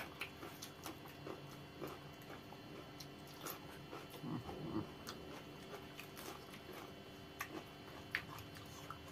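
Two people eating spicy instant noodles: faint chewing and mouth sounds with scattered small clicks.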